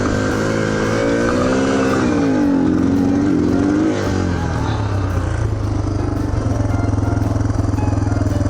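Yamaha TTR230's single-cylinder four-stroke engine running poorly under way. Its pitch rises and falls over the first few seconds, then holds steady from about five seconds in. The rough running is a fault the owner puts down to a weak battery.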